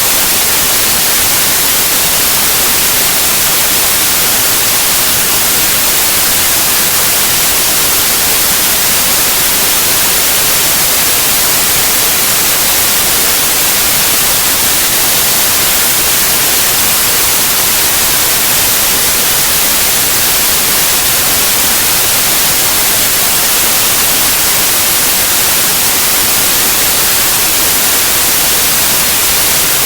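Steady, loud white noise: an even, unchanging hiss, strongest in the treble.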